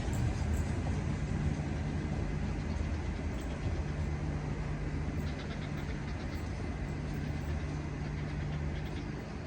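Electric-hauled train running, a steady low hum with a slowly fading level.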